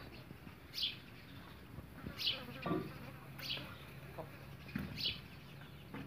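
Short high bird chirps, each falling in pitch, four of them spaced about a second or so apart, over a faint steady low hum.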